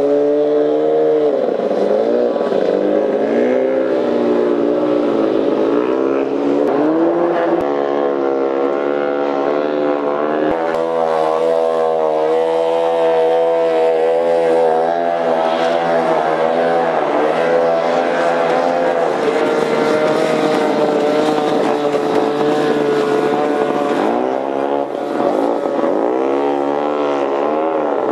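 Antique outboard motors running on boats, their pitch repeatedly rising and falling, with more than one motor heard at times.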